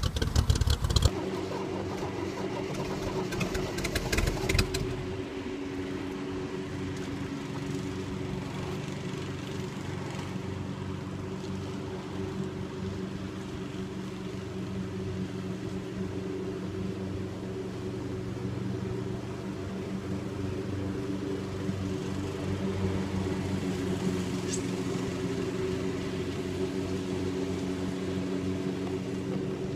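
A 1976 AMC Pacer's straight-six idling steadily with its freshly cleaned carburetor, running without its exhaust fitted. The owner thinks it still needs new plugs and wires. Rustling and knocking in the first few seconds.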